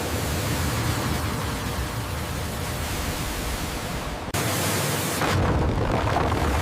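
High-pressure water jet spraying logs: a loud, steady rushing hiss. About four seconds in it changes abruptly to a brighter, thinner hiss.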